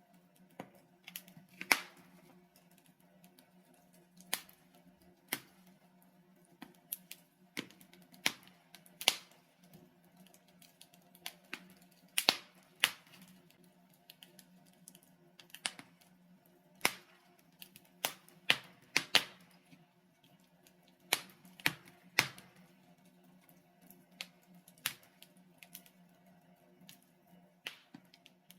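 Logs burning in a fireplace, crackling with irregular sharp pops, some much louder than others, over a faint steady low hum.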